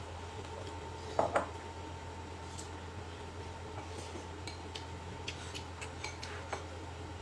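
Tableware clinking during a meal: two sharp knocks a little over a second in, then a scatter of light clicks and taps from dishes and utensils, over a steady low hum.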